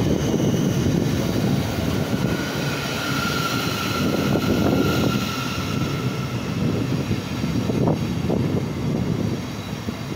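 Train passing along the platform: a dense rumble of wheels and rushing air, with a steady high whine joining about two and a half seconds in and fading out about six seconds in.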